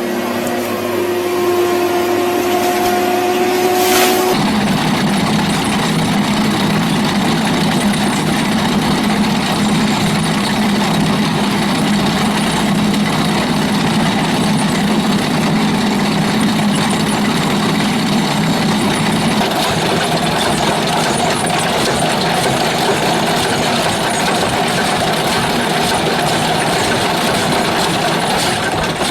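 Heavy machinery engine running steadily. For the first four seconds a steady hum with two clear tones sits over the engine, then it switches abruptly to a louder, denser, unchanging engine sound.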